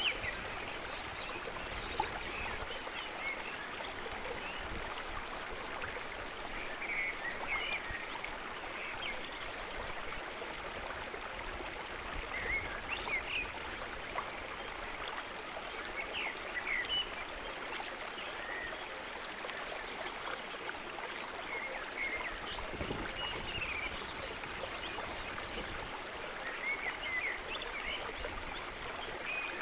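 Steady rush of flowing water, with short high chirping calls scattered through it.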